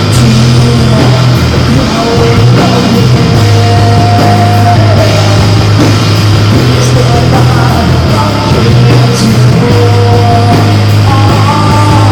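Live band playing loud rock music, with a heavy bass line and electric guitar holding long melody notes over it.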